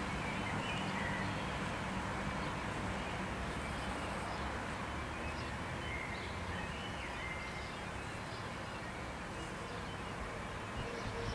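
Outdoor town ambience: a steady, even rumble of distant noise with a few faint, short bird chirps.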